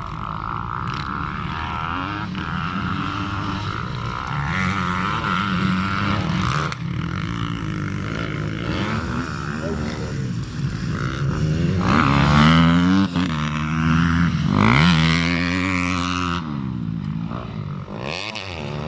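Motocross dirt bike engines revving and passing, the pitch climbing and falling with the throttle. The loudest, fastest-changing revs come about two-thirds of the way through.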